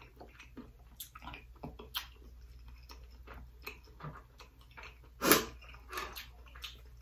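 Close-miked wet eating sounds: chewing and lip-smacking on a mouthful of rice and spicy shrimp, heard as a string of small wet clicks. One louder, sharp sound comes about five seconds in.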